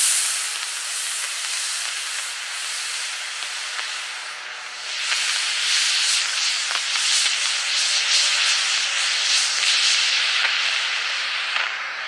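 29mm Aerotech H13 long-burn rocket motor firing, a steady rushing hiss of thrust. It swells again about five seconds in and starts to fade near the end.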